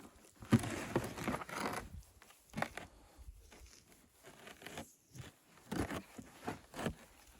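Irregular crinkling and crunching with scattered light knocks, a denser stretch of crinkling in the first two seconds.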